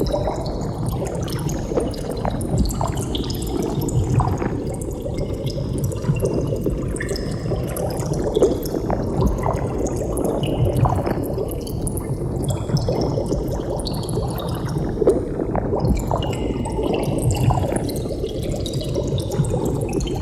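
Continuous underwater bubbling: a dense stream of bubbles with many small, closely packed gurgles and pops.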